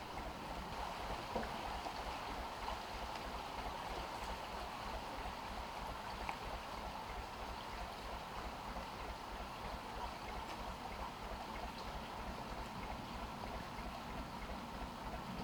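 Gardner 2LW two-cylinder diesel running slowly with an even, steady low beat, over a steady rush of flowing water.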